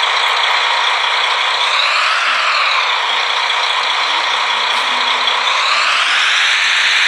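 Small electric motor running with a rattling whir; its pitch rises about two seconds in, drops back, then rises again near the end.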